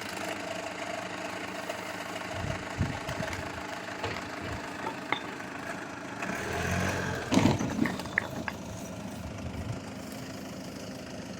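SsangYong Kyron's 2.0 turbodiesel engine idling steadily, rising briefly about two-thirds of the way through, with a few sharp knocks just after.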